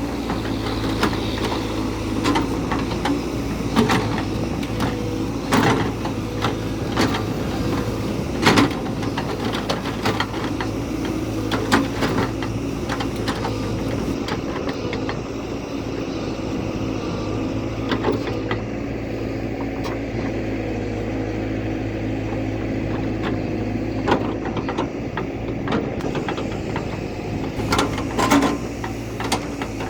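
JCB backhoe loader's diesel engine running steadily under work, with frequent sharp clanks and knocks scattered through it.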